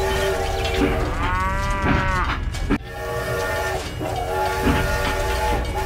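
A cow moos once, a long call that rises then falls, over a repeating train-whistle chord and a steady low rumble of a train.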